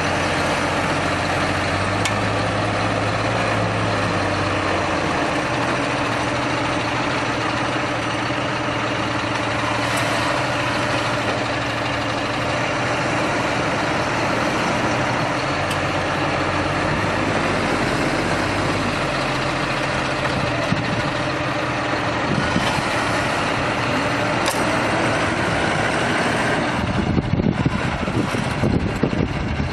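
A heavy vehicle's engine running steadily under a loud, even hiss. About three seconds before the end, a gusty low rumble takes over.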